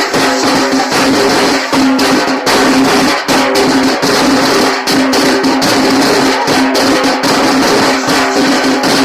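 Tasa drums played in loud, dense, fast rhythm, many hits blurring together, with a steady pitched note underneath.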